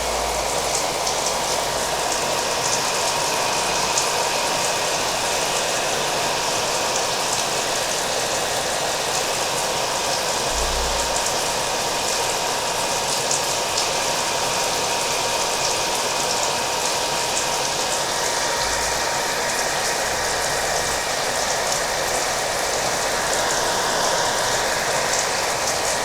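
Hair dryer running steadily with a thin constant whine, mixed with the patter of rain.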